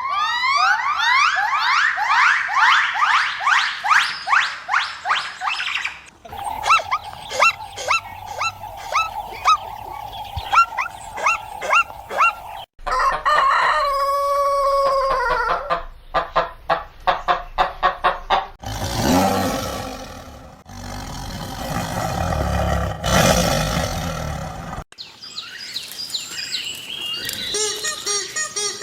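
A string of short clips of poultry and bird calls, each ending in an abrupt cut. It opens with dense rapid chirping, then a run of quick repeated calls, a few arching calls, a stretch of rushing noise, and chirping again near the end.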